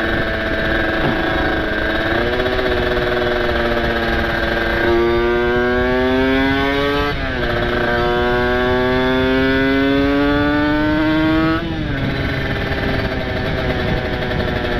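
Two-stroke single-cylinder engine of a Kawasaki Ninja RR with a ported engine and open aftermarket exhaust, accelerating while riding: its pitch climbs, falls suddenly at a gear change about seven seconds in, climbs again, then falls near the end as the throttle eases.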